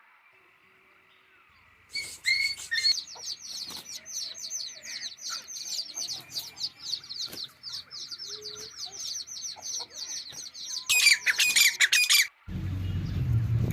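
A bird calling in a long run of quick, high, falling chirps, several a second, with a louder, harsher stretch near the end. The chirps stop suddenly and a low rumble follows.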